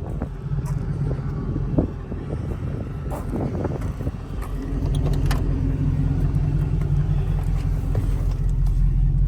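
Ford F-250's 460 big-block V8 running steadily at idle, starting right up and running well, a little louder from about halfway through.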